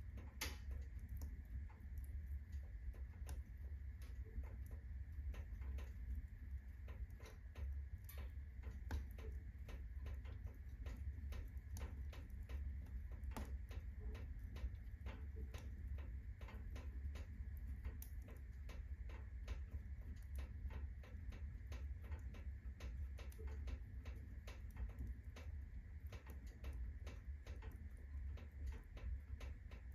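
Wood fire in a fireplace at full burn, crackling with many irregular sharp pops over a steady low rumble.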